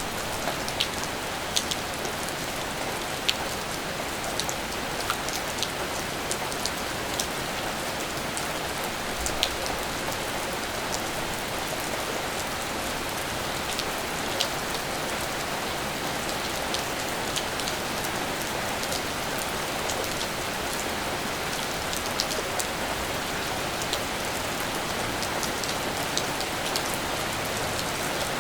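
Steady rain falling, an even hiss with many separate drops ticking sharply at irregular moments on nearby surfaces.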